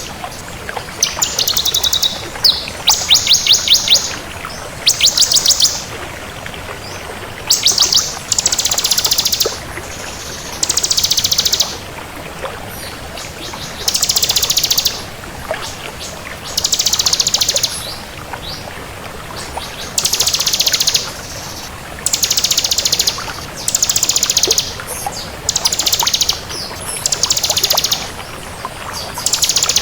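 Ciblek kristal, a prinia, singing: rapid, high, trilled phrases about a second long, repeated every two seconds or so.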